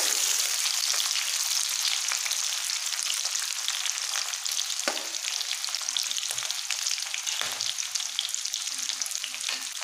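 Sliced onions, bay leaves and a dried red chilli sizzling steadily in hot oil in a metal kadai, stirred with a steel ladle that scrapes and clinks against the pan a few times.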